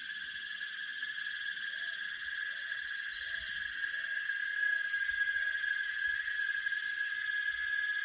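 Steady, high insect chorus of crickets trilling without a break. Two short rising chirps come high above it, and a run of about six short low calls sounds through the middle.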